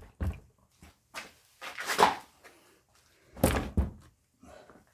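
Clunks and knocks of an electric chainsaw's chain and guide bar being taken off and handled, a few separate knocks with the loudest about two and about three and a half seconds in.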